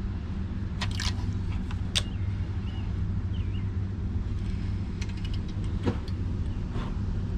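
A steady low hum, like a small motor, with a few sharp clicks and taps scattered through it and faint short chirps about three seconds in.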